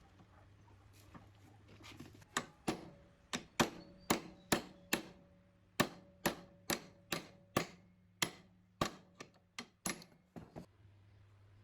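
Hammer tapping on metal: about twenty sharp blows, roughly two a second, starting light and getting harder about two seconds in. A faint ring hangs between some of the strikes.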